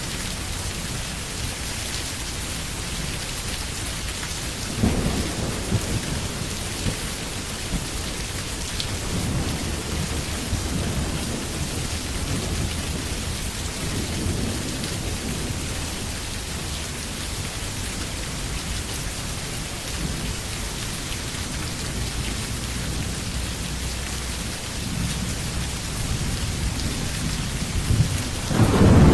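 Steady rain in a thunderstorm, with thunder rumbling several times: a sudden rumble about five seconds in, softer rolls later, and a louder one building near the end.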